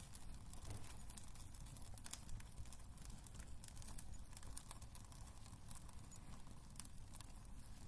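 Wood fire burning in a fireplace, crackling with scattered small pops and snaps over a low, steady rumble of flame.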